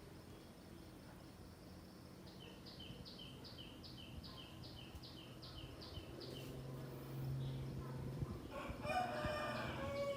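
A rooster crowing once near the end, the loudest sound here. Before it comes a run of about a dozen short, high bird chirps, about three a second.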